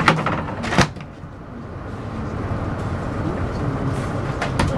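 Airliner cabin ambience: a steady hum of the cabin air system with murmured passenger voices. There are sharp clicks at the start and just under a second in, then two or three more near the end.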